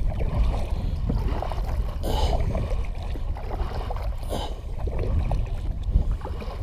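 Water sloshing and trickling around a kayak, with wind rumbling on the microphone and two brief, brighter splashes about two and four seconds in.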